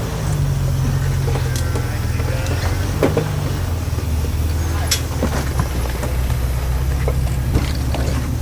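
Lifted off-road 4x4 truck's engine running at low revs as it crawls over rocks, its note dropping about halfway through. Scattered sharp knocks and clicks, the strongest about three and five seconds in.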